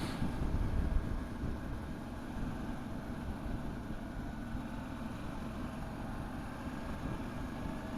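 Motorcycle engine running steadily while riding along, with wind rumble on the microphone, heaviest in the first second.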